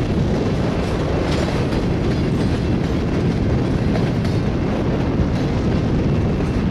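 Railroad tank cars rolling past, with a steady rumble and the clickety-clack of their wheels over the rail joints.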